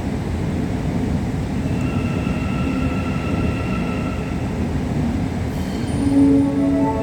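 Metro train pulling into its terminus station, a steady rumble of wheels and motors with a high whine about two seconds in that fades after a couple of seconds, and a short pitched tone near the end.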